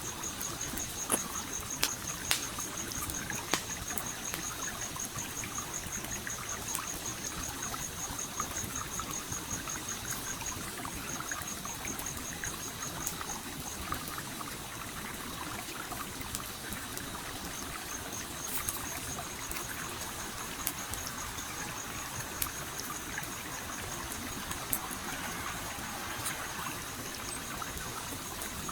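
Stream flowing and trickling steadily, with the sharp crackles and pops of a wood campfire, most frequent in the first few seconds. A high, rapid pulsing trill runs alongside, breaking off for a few seconds about halfway through.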